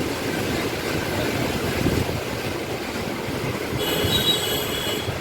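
Floodwater rushing through a river barrage: a steady, even roar of water. A few faint high tones come in briefly about four seconds in.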